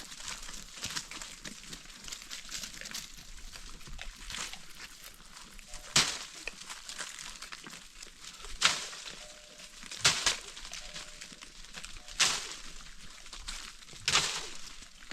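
Five sharp knocks or cracks, spaced about two seconds apart, over a steady crackling rustle.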